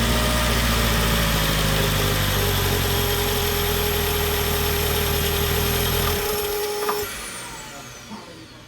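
Mercedes-Benz B200 Turbo's four-cylinder engine running steadily just after start-up, with its new timing chain tensioner fitted; it is switched off about six seconds in, a whine lingering a moment longer as it winds down.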